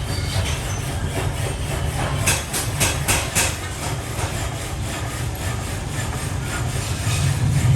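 Heavy machinery running with a steady low drone, with a quick series of sharp knocks about two to three and a half seconds in.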